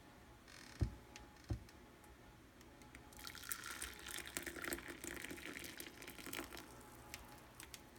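Two light knocks, then just-boiled water pouring from an electric kettle's spout for about three seconds.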